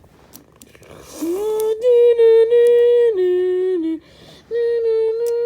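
A person humming long held notes: a rising slide into a steady note, a drop to a lower note, a pause, then one more held note at the higher pitch.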